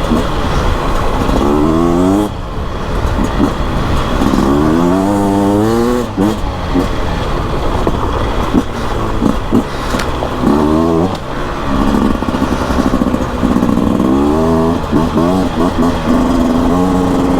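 Beta RR 300 two-stroke single-cylinder enduro engine under way, revving up again and again, its pitch climbing and dropping back several times as the throttle opens and closes, with a stretch of steady pitch past the middle.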